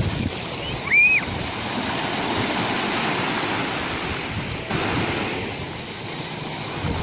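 Sea waves washing in, a steady rush of surf, with a short high-pitched call about a second in.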